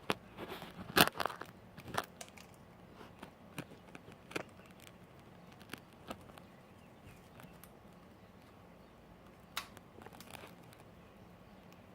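Pet bird moving about in and on a cardboard box: scattered sharp clicks and crinkly rustles of claws and beak on cardboard and paper, busiest about a second in and again briefly near the end.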